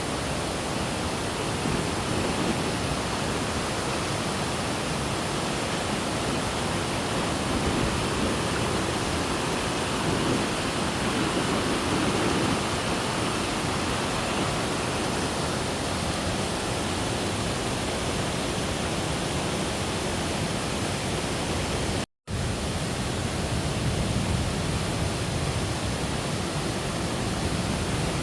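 Steady rushing of a waterfall's falling water, with a very short dropout about three-quarters of the way through.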